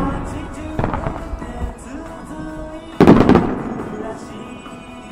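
Aerial firework shells bursting: a smaller boom about a second in, then a loud volley of several bursts close together about three seconds in, each fading away, over music played along with the show.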